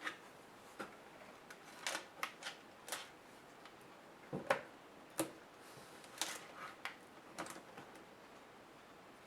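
Irregular sharp clicks and taps, about a dozen, from laptop parts being handled and worked apart during disassembly.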